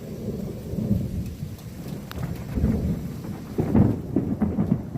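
Thunder rumbling in uneven swells, loudest about four seconds in, with rain falling.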